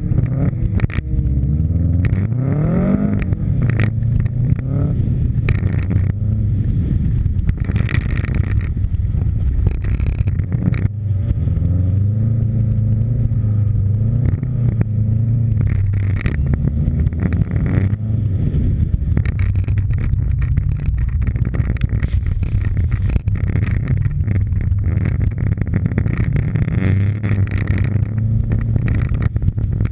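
Subaru Impreza STI's turbocharged flat-four engine driven hard on snow: the revs climb steeply in the first few seconds, then rise and fall with throttle and gear changes. Many short knocks come through over the engine.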